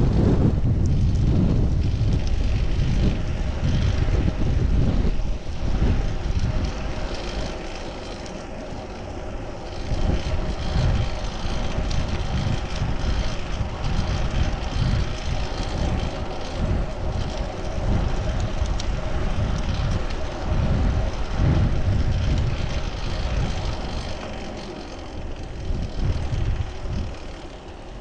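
Wind buffeting a chest-mounted action camera's microphone while riding a fixed-gear bicycle, a gusting low rumble over a steady hum of tyres on the road.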